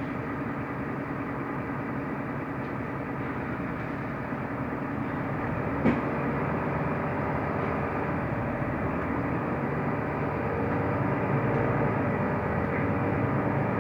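Mercedes-Benz O345 Conecto LF city bus under way, heard from inside the passenger cabin: a steady engine hum with road and body noise. There is a single sharp knock about six seconds in.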